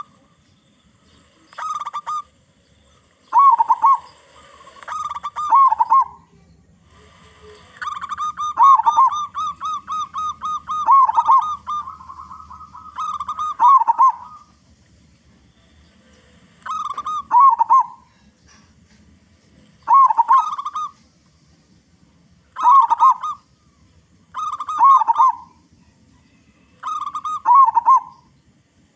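A local zebra dove (perkutut) cooing: about nine short phrases, each a quick run of notes that drops in pitch at the end, spaced a couple of seconds apart. About a third of the way in comes one longer stretch of rapid, evenly spaced notes lasting several seconds.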